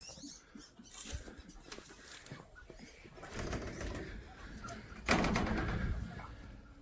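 Doves cooing in an aviary, with a louder burst of noise about five seconds in.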